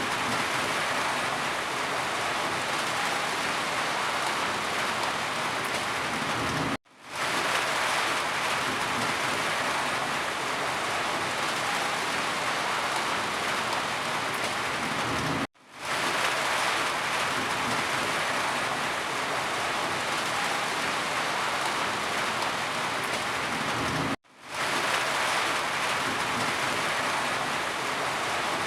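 Steady rain falling, a dense even hiss of drops. Three times, about every nine seconds, the sound cuts out for an instant and fades back in.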